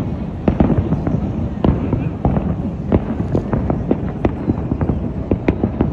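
Aerial fireworks show: a rapid, irregular barrage of booms and sharp cracks over a continuous low rumble of overlapping bursts.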